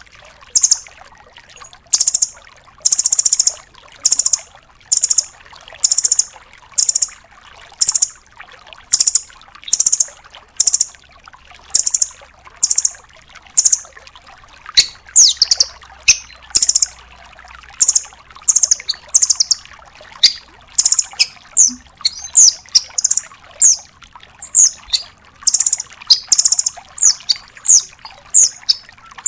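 Velvet-fronted nuthatch calling: a long run of sharp, high chip notes, at first about two a second, then faster and in quick pairs and clusters in the second half.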